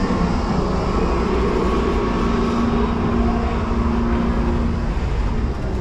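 Disneyland Railroad train rolling along the track, a steady rumble and rattle of wheels and cars heard from a passenger car, with a low steady hum from about two to five seconds in.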